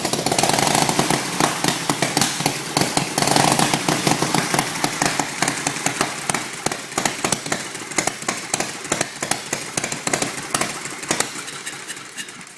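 1913 Thor 1000cc race bike's V-twin engine running with rapid firing pulses, revved up twice in the first few seconds, then slowing and dying away near the end.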